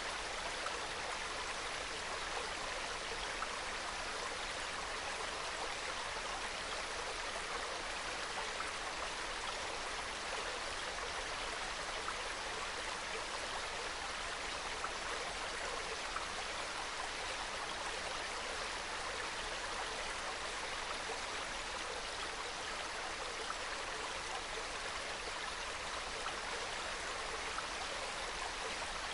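Small mountain stream flowing and trickling over rocks, a steady, soft babble of water.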